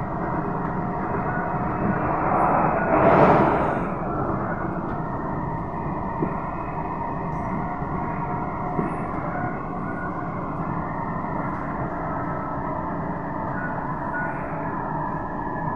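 Interior running noise of an SMRT C151B electric train at speed: steady wheel-and-rail rumble with a steady electrical hum. About three seconds in, a brief louder rush swells and fades.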